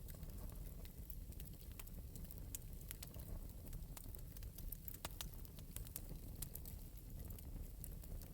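Wood fire burning in an open metal fireplace, crackling lightly with irregular small pops and snaps over a soft low rumble.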